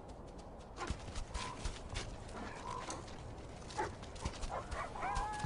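Scavenging birds calling around a carcass, with scattered sharp clicks. There are short calls about a second in, and near the end longer, level, whistle-like calls.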